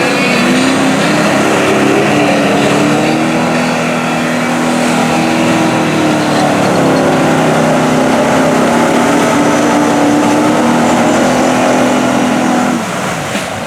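Mud bog truck's engine held at high revs, its pitch stepping up and down as the throttle is worked, then dropping off about 13 seconds in.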